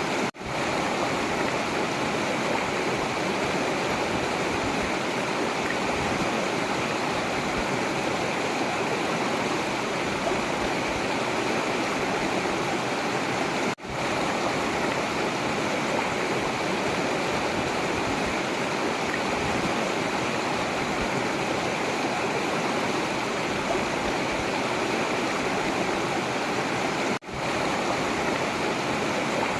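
Forest river rushing steadily over rocks. The sound cuts out for an instant three times, about 13 seconds apart.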